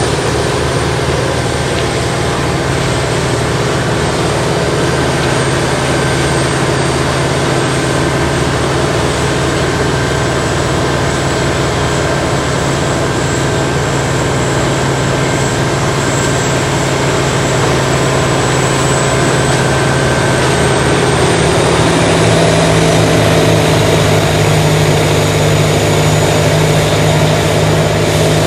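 Morbark 80,000-pound tracked horizontal grinder running loud and steady as it grinds brush and stumps. About twenty-two seconds in, the machine's pitch rises and holds higher.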